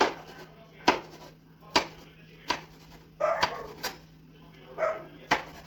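Knife chopping a bell pepper on a cutting board: single sharp strikes about a second apart. Two short pitched cries come in between, near the middle and near the end.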